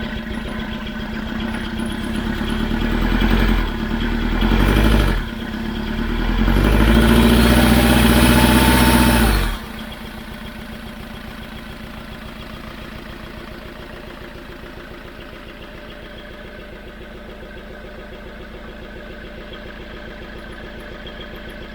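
Chevrolet Tracker engine just started after a timing belt replacement, being revved in surges and held high. About nine and a half seconds in it drops suddenly to a steady idle.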